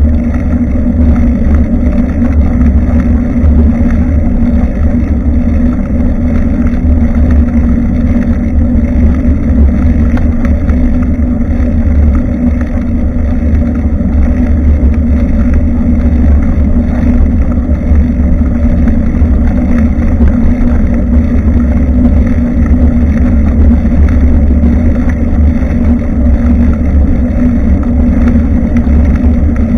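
Steady wind and riding noise on the microphone of a bicycle-mounted action camera while cycling: a loud, even low noise with a constant hum beneath it.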